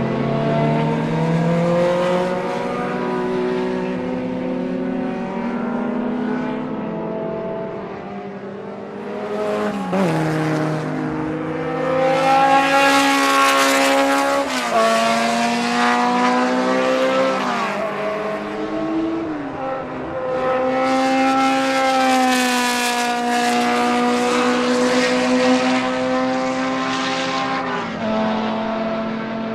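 BMW M12/7 two-litre four-cylinder Formula 2 racing engine running at high revs under load, its note dropping in sudden steps several times as gears are changed.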